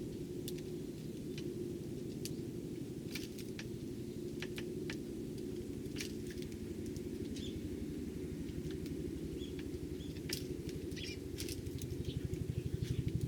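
Eurasian tree sparrows giving short, scattered chirps among sharp little clicks, over a steady low drone that grows louder with a pulsing beat near the end.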